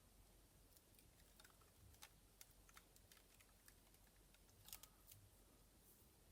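Near silence with faint, scattered clicks and scratches, typical of dried masking fluid being peeled off a painted canvas.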